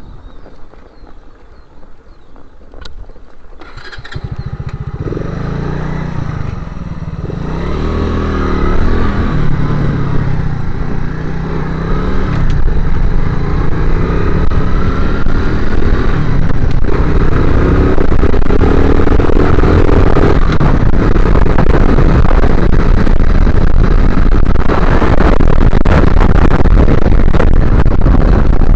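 Motorcycle engine running, its revs rising and falling as it pulls away, growing louder over the first dozen seconds into steady, loud riding noise.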